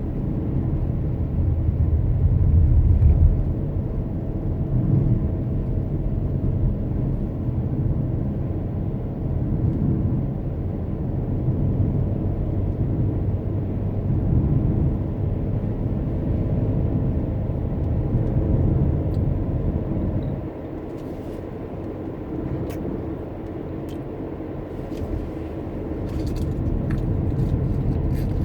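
Steady low rumble of road and engine noise from a car driving, easing about two-thirds of the way through, with a few faint clicks near the end.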